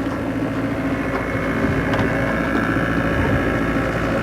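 A sailing yacht's inboard diesel engine running at a steady pace, a constant drone that neither rises nor falls.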